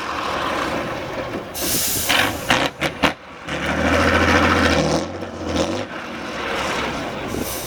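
Competition trial truck's engine running under load, with sharp air hisses in the first three seconds. The engine grows heavier and louder from about three and a half seconds in and eases off near six seconds.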